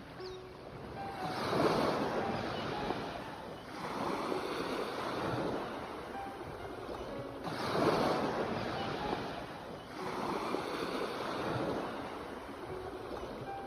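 Sea waves washing in and breaking on a shore, the surf swelling and ebbing about four times.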